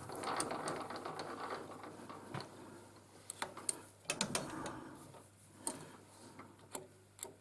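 Quiet clicks, ticks and rattles of metal parts and controls being worked at a metal lathe, over a faint steady hum.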